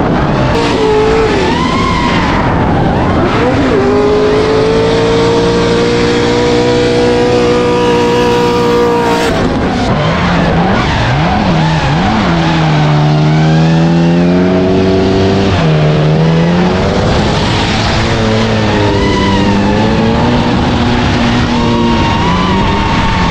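Drift cars' engines revving, rising and falling in pitch, with tyres squealing and skidding as they slide; at times more than one engine is heard at once.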